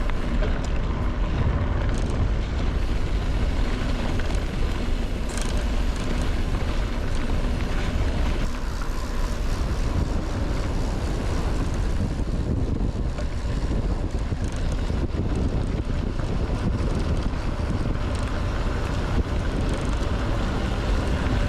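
Wind buffeting the microphone of a camera riding on a moving mountain bike: a steady, heavy low rumble.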